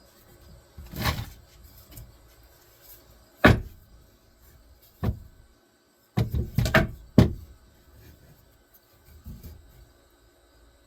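Cordless drill run in short bursts, its battery nearly flat, among sharp knocks of wood being handled. A cluster of drill bursts comes about two-thirds of the way through.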